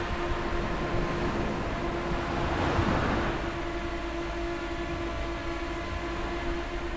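Sea waves washing on a beach, one swell rising and falling about three seconds in, under a steady held tone of background music.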